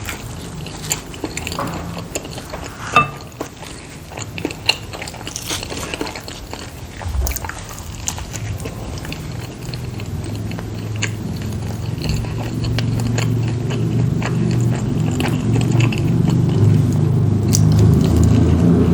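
Close-miked biting and chewing of soft filled dumplings, with frequent wet mouth clicks and smacks. A low rumble builds steadily through the second half and grows louder toward the end.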